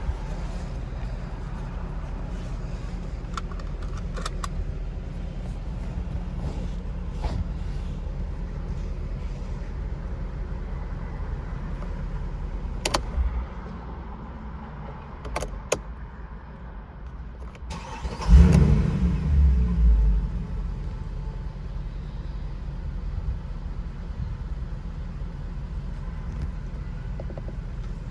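Mercedes-AMG C63's V8 running at a steady idle; near the middle the rumble drops and a couple of clicks are heard. About two-thirds in the warm engine starts with a loud, brief flare, then settles back to a steady idle.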